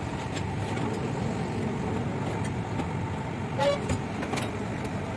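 Steady rumble of motor vehicle traffic, with a short horn toot about three and a half seconds in.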